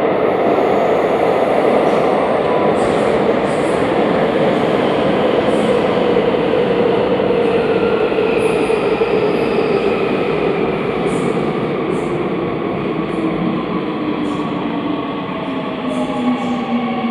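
Seoul Subway Line 3 train pulling into a station: a loud, steady rumble of wheels on rail and motors, with its motor whine falling in pitch as it slows through the second half. Short high squeaks from the wheels come and go throughout.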